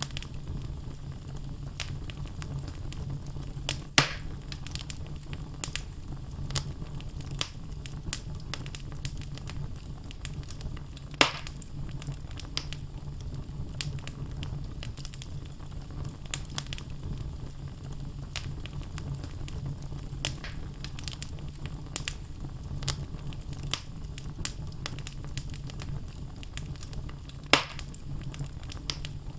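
Wood fire burning in a fireplace: logs crackling with many small clicks over a steady low rumble, and three loud sharp pops, about four seconds in, near the middle and near the end.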